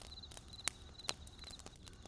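Wood fire crackling, with several sharp pops over a low hiss, the loudest about two-thirds of a second in. Behind it a high chirping repeats about twice a second, like a night insect.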